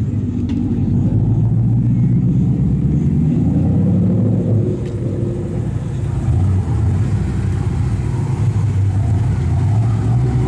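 Performance car engine running at low revs, its exhaust giving a loud, low, steady rumble that eases slightly about halfway through.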